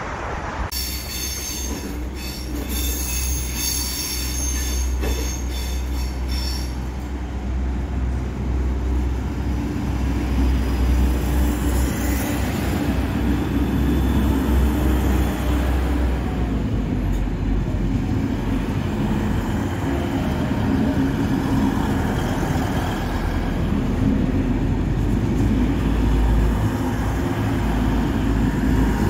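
A train running on the tracks, with a high wheel squeal in the first few seconds over a steady low rumble that grows louder.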